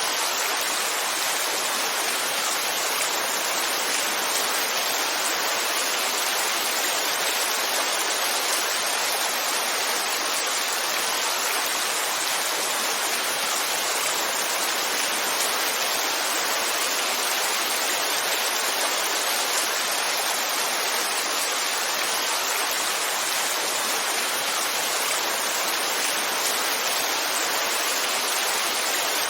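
Heavy rain falling steadily, a dense even hiss with no single drops, thunder or changes standing out.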